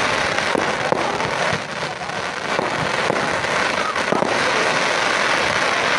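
Fireworks going off in a steady dense crackle, with several sharp cracks and pops scattered through it.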